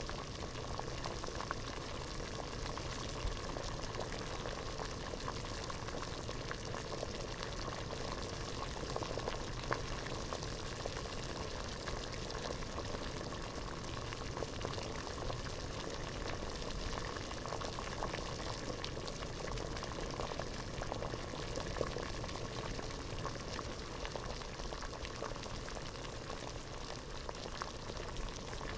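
Water boiling in a pot: a steady bubbling with many small pops.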